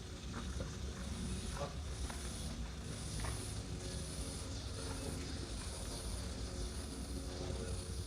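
Steady rushing hiss of flowing river water, with a constant high buzz over it and a few faint ticks.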